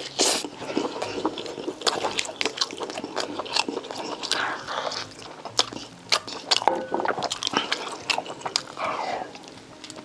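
Close-miked mouth sounds of eating: biting and chewing with frequent sharp wet smacks and clicks.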